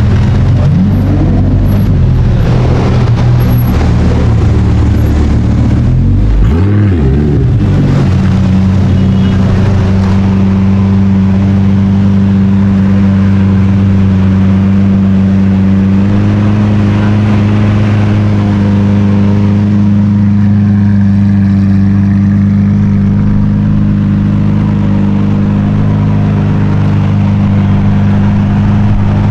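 A sports car engine idling loudly, blipped briefly twice, about a second in and again around seven seconds in, each rev rising and falling quickly before settling back to a steady idle.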